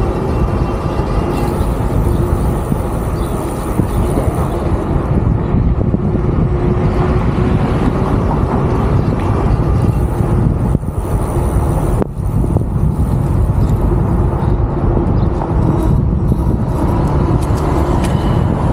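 Wind rushing over the microphone of a moving e-bike, with the electric drive motor humming a steady tone underneath; the sound drops out briefly about twelve seconds in.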